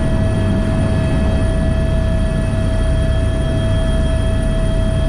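AS355 Twin Squirrel twin-turbine helicopter at take-off power, lifting from the hover into the climb: a steady turbine whine over a dense, low rotor drone.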